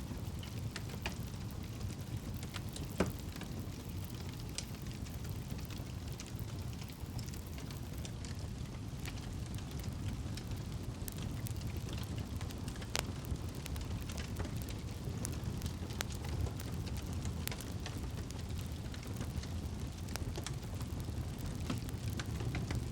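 Campfire burning: a steady low rush of flame with irregular sharp crackles and pops from the burning wood, the clearest about three seconds in and again about thirteen seconds in.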